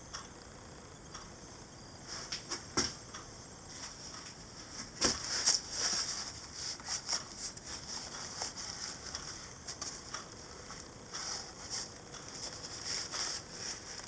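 Workshop metalworking noise on a small model engine part: irregular clicks and scratchy, hissy scraping, busiest from about two seconds in, with a few louder clicks around three and five seconds in.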